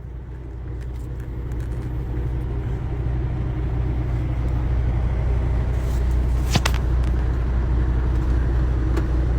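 Semi-truck's diesel engine running with a steady low rumble, growing a little louder over the first few seconds. A single sharp click about two-thirds of the way through.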